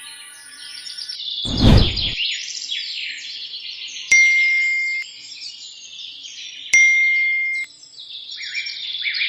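Dense chirping of many small birds, with a short low whoosh about one and a half seconds in. Twice a sharp click is followed by a steady beep lasting about a second.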